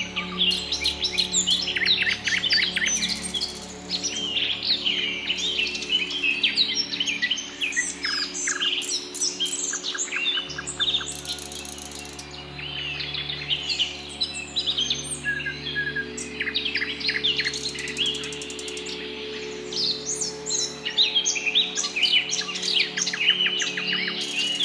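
A dawn chorus of many birds chirping, trilling and calling at once, in rapid overlapping phrases, over a low steady hum that shifts about ten seconds in.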